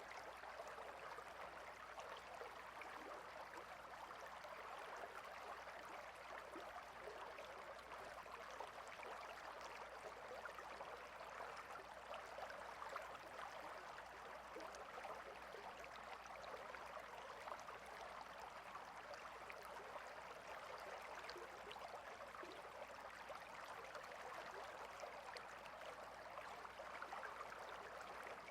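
Water stream flowing: a faint, steady rushing with tiny scattered splashes in it.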